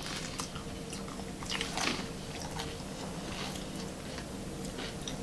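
Close-up chewing and biting of crusty stuffed sourdough bread, with scattered small crunches and a louder crunch about two seconds in, over a faint steady hum.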